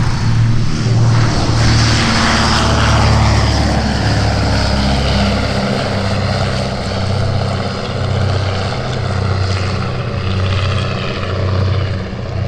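Aircraft engine noise from an aircraft flying past, its pitch falling about two seconds in, over a low throbbing hum.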